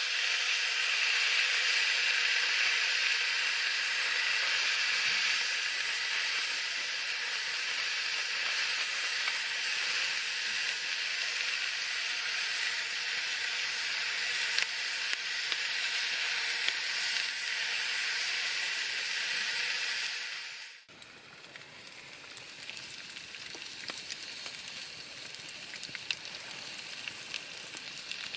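Food sizzling as it fries, a steady hiss. About three-quarters of the way through it cuts to a quieter sizzle full of fine crackles.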